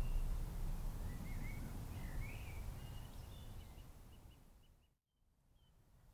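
Small birds chirping over a low background rumble, both fading out to a brief silence about five seconds in, after which faint background noise returns.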